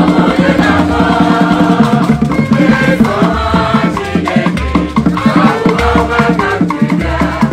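Live ogene band music: fast, steady percussion with rattles over a repeating bass line.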